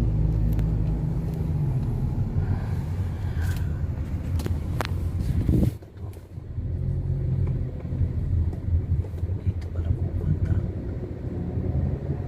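Car driving: a steady low engine and road rumble, with a few faint clicks and a sudden brief drop in level about halfway through before the rumble returns.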